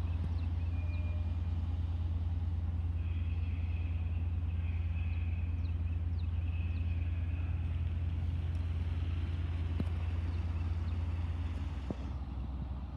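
Long Island Rail Road diesel push-pull train approaching slowly, giving a steady low rumble, with a high-pitched squeal from about three to seven seconds in.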